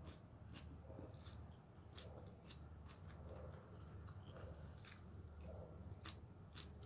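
Faint close-up chewing of crisp raw salad vegetables, with irregular sharp crunches several times a second over a low steady hum.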